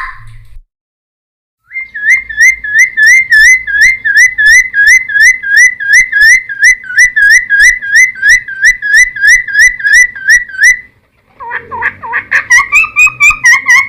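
Cucak timor (helmeted friarbird) singing: a short call, a brief pause, then a long run of loud, quickly repeated whistled notes, about three a second, which gives way near the end to a faster, more varied phrase.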